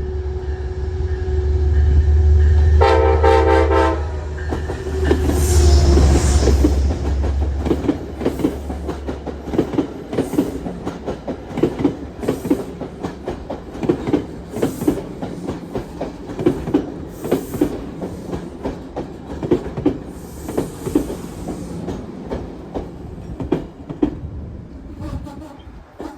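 Metro-North diesel commuter train going by: the locomotive's engine rumbles while its horn sounds one short blast about three seconds in. Then the cars' wheels click steadily over the rail joints as the train passes.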